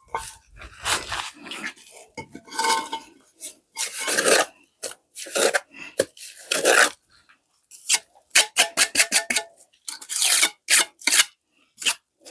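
Repeated rasping, scraping strokes of hand work, roughly one or two a second and uneven, with a quick run of sharp clicks about eight seconds in.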